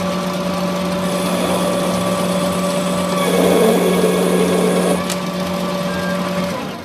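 Workshop machine running with a steady hum. About three seconds in a louder, rougher noise joins it for nearly two seconds, like a tool working the metal, with a click as it ends. The machine stops just before the end.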